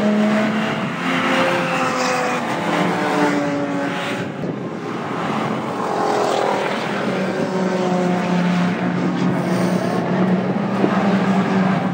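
Several cars' engines running hard as they lap a race track and pass one after another, their overlapping notes rising and falling.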